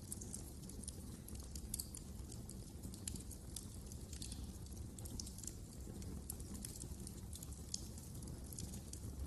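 Wood fire burning in a fireplace: many small, irregular crackles and pops over a steady low rumble.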